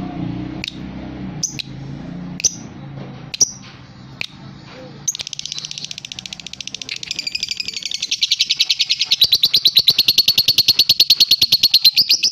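Young lovebird singing: a few single sharp chirps about a second apart, then from about five seconds in a long, fast, unbroken trill that grows louder and cuts off near the end.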